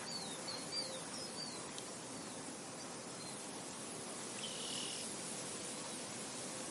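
Outdoor nature ambience: a steady hiss of insects and wind, with a bird's short, high, falling chirps repeated through the first two seconds and one held high note about four and a half seconds in.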